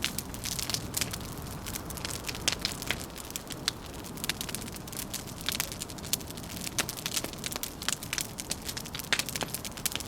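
Wood fire crackling, with many irregular sharp pops and snaps over a steady low rush.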